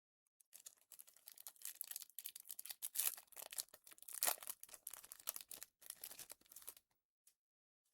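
A trading card pack wrapper being torn open and crinkled. It makes a dense run of crackling for about six seconds, loudest about four seconds in.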